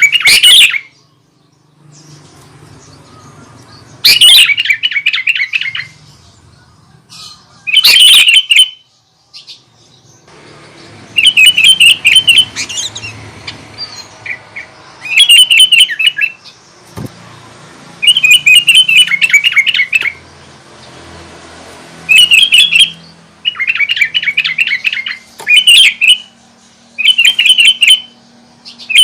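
Sooty-headed bulbul singing loudly in repeated short, rapid chattering phrases, each about a second or two long, with brief pauses between them that grow shorter in the second half.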